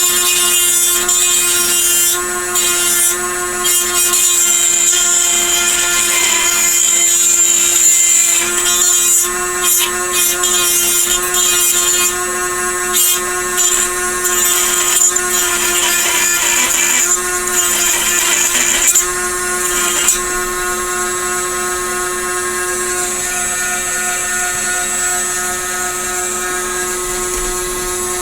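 Small handheld rotary power tool running at a steady high-speed whine, sanding down a plastic model part: irregular rough, scratchy grinding over the whine for about the first twenty seconds, then the tool spinning free.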